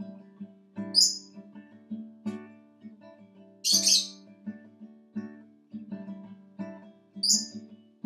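Acoustic guitar strumming chords, with a lovebird giving three short, loud, high chirps: about a second in, midway, and near the end.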